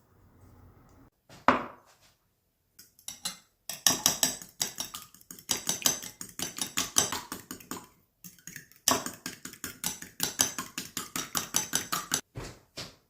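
Kitchen knife chopping rapidly on a cutting board, several strokes a second, in two runs with a short pause between them.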